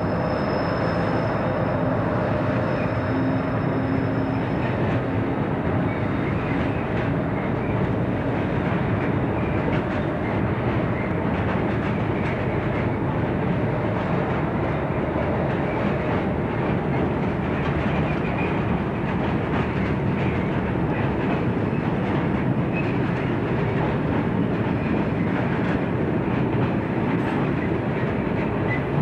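Freight train hauled by a British Rail Class 60 diesel locomotive passing. The engine note and a steady whine are heard in the first few seconds, then a long rake of bogie hopper wagons rolls by with a steady rumble of wheels on rail and faint repeated clicks.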